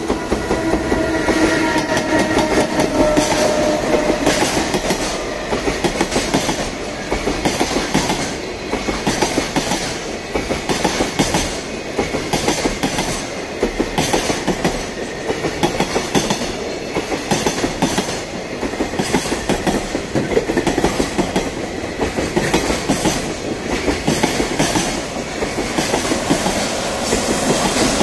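Container freight train passing close by, its wagons clattering over the rail joints in a steady, rhythmic clickety-clack, with a falling whine in the first few seconds. Near the end a second freight train, led by an EF210 electric locomotive, comes up on the neighbouring track and the sound grows louder.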